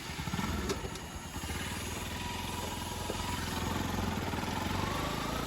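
Motorcycle engine running steadily while riding, its note rising slightly near the end.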